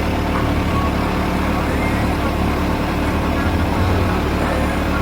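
A steady, even engine hum running without change.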